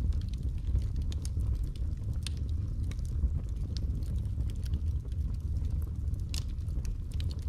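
Wood fire crackling in a fireplace: scattered sharp pops and snaps over a steady low rumble of the burning fire, with one louder pop near the end.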